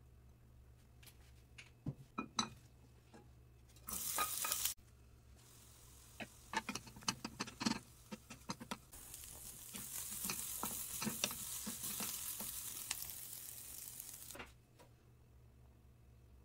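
Onion slices sizzling in hot oil in a non-stick frying pan while a spatula stirs them, knocking and scraping against the pan. A short loud burst of sizzling comes about four seconds in, and a steady sizzle from about nine seconds in stops suddenly about fourteen and a half seconds in.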